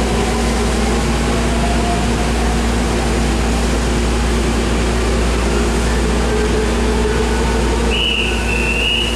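Steady hum and hiss of a stopped Semboku Rapid Railway 7000 series commuter car with its doors open, its air conditioning and onboard equipment running, with a faint shifting whine from the train on the next track pulling out. About eight seconds in, a high warbling electronic tone starts.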